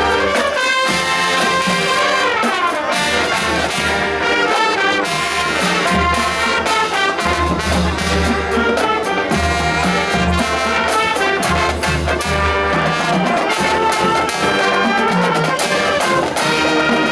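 A school marching band's brass section (trumpets and trombones, with a low bass line) playing a tune at full, steady volume.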